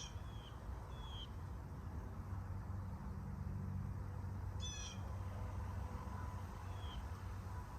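Blue jay giving two short, harsh calls about four and a half seconds apart, with a few brief whistled notes in between.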